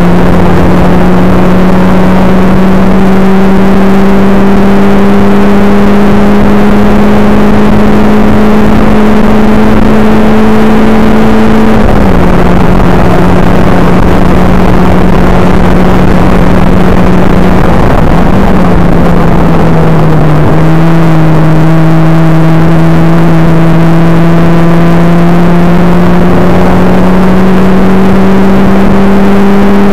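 Caterham Seven's engine pulling hard on track, heard from the driver's seat over heavy wind rush. The engine note climbs slowly through a long pull, drops sharply about twelve seconds in, sags again a few seconds later, then climbs steadily once more.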